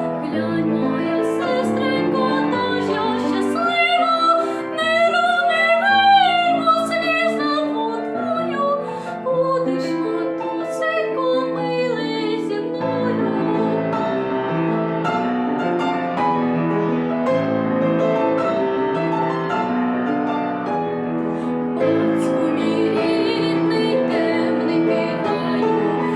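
A woman singing a classical art song with wide vibrato to piano accompaniment. The voice stands out most in the first half; after that the piano chords carry on.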